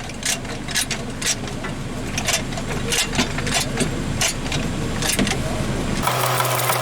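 Car jack being pumped to raise the car, its strokes giving a series of sharp clicks every half second or so. A steady hum starts near the end.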